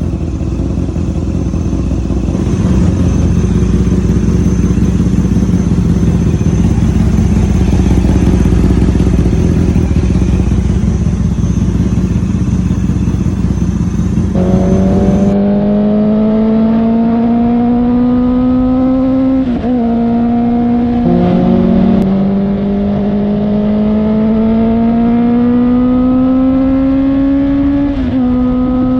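Honda CB650-series inline-four motorcycle engine through a Termignoni aftermarket exhaust. For about the first half it is a steady rumble with a slowly sinking note. About halfway in, after a cut, the exhaust note climbs steadily as the bike pulls up through the gears, dropping back at each gear change, twice.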